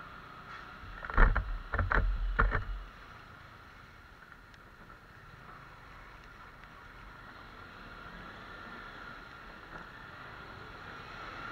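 Steady wind and road noise from a Bajaj Pulsar NS150 motorcycle riding in the rain, with a brief cluster of heavy thumps about a second in.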